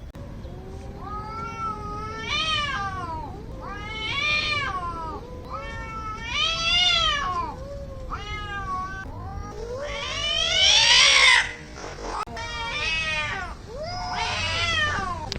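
Cats yowling at each other in a fight: about seven long, wavering caterwauls that rise and fall in pitch, the loudest and harshest one about two-thirds of the way through.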